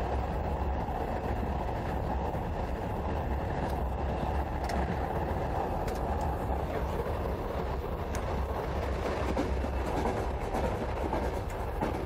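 Steady rumble and clatter of a moving passenger train, heard from inside a carriage compartment, with a few faint clicks over the running noise.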